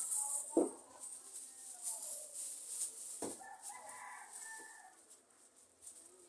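A rooster crowing: one long drawn-out call from about a second and a half in, ending on a held note. Two sharp knocks come before and during it.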